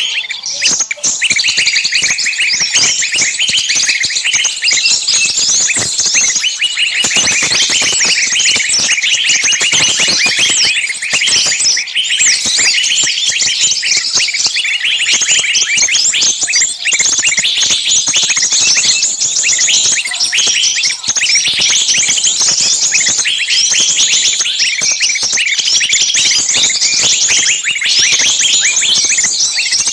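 Many small birds chirping at once in a dense, continuous chorus of short overlapping high chirps and trills.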